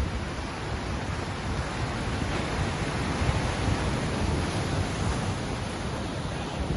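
Ocean surf washing in, a steady rushing hiss with a low rumble beneath it.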